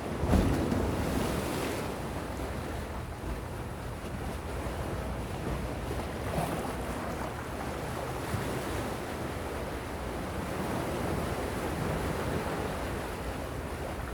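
Calm sea waves washing ashore in a steady wash of surf, with one louder surge about half a second in.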